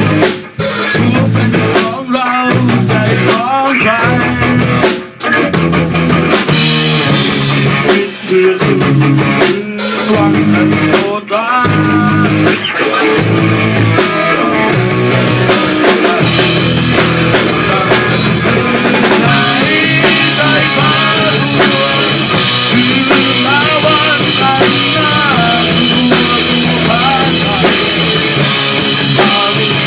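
Rock band music with drum kit and guitar. In the first half the band stops briefly on several accented hits, then it plays on steadily.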